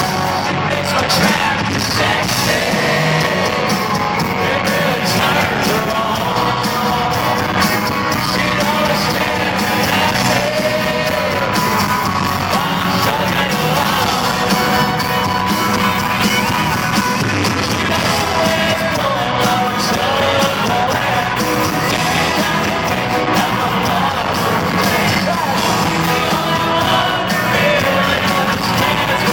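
Live country band music with a lead vocal, heard in a large hall, with yells and whoops from the crowd.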